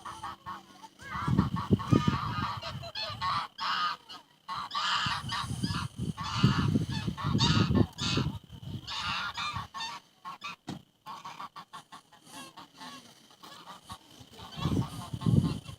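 Birds calling loudly in repeated, overlapping bouts, densest through the first two-thirds, thinning out, then another burst near the end.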